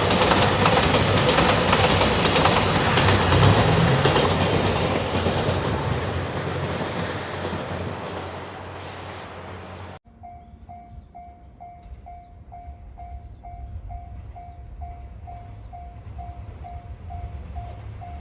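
A train passing close by, wheels clacking over the rail joints, its noise dying away over several seconds. After an abrupt cut about ten seconds in, a Japanese level-crossing warning bell rings steadily, about two dings a second.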